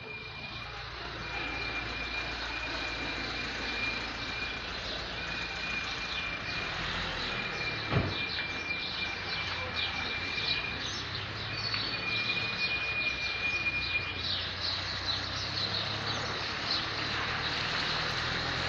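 Outdoor traffic noise with many birds chirping, mostly in the second half, and a high steady tone that sounds in stretches of a second or two and stops after about fourteen seconds. A single sharp knock about eight seconds in.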